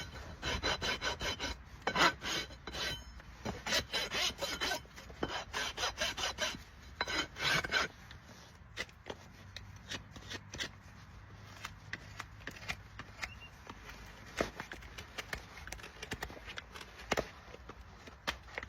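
Farrier's rasp filing a shire horse's hoof in quick, even back-and-forth strokes that stop about eight seconds in. After that come only a few faint scrapes and knocks.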